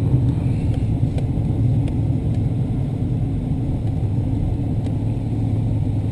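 A vehicle engine running steadily with a low, even rumble and no revving.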